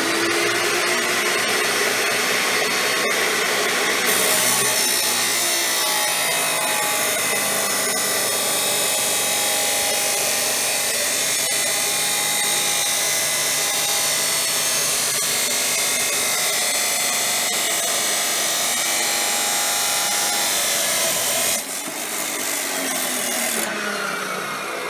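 A 14-inch abrasive wheel chop saw grinds through 2-inch steel angle iron in one long, steady cut with a loud hiss. About 21 seconds in, the cut ends and the motor is switched off, its whine falling as the wheel spins down.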